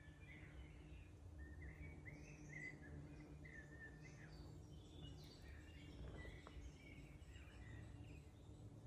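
Faint songbirds chirping and trilling, several short calls overlapping, over a steady low background rumble.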